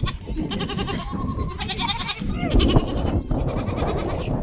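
Goats bleating: two quavering bleats one after the other in the first two seconds, followed by more animal and handling noise.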